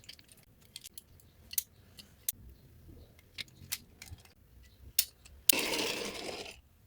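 Scattered small clicks and taps of a toy dump trailer truck being handled, then a short rushing noise lasting about a second near the end.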